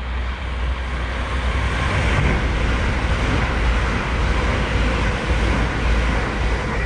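Thameslink electric multiple-unit train passing close beneath, a loud steady rumble and rush of wheels on rail.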